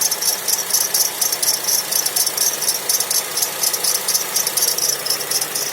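A high-pitched whistling hiss pulsing rapidly, about four or five times a second, over a faint steady mechanical hum.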